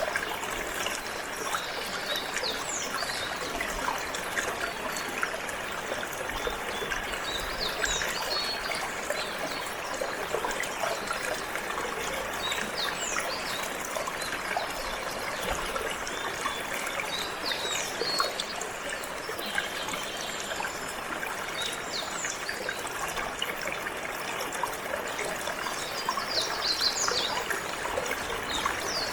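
Water trickling and flowing steadily, with canaries chirping in short, high notes scattered throughout and more densely near the end.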